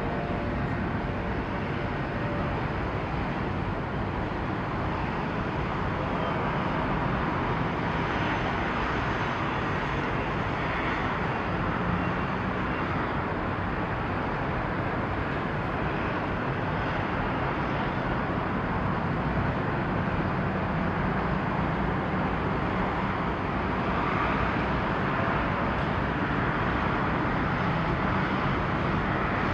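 Steady outdoor rumble of engines and traffic noise, with a faint low hum and no distinct events.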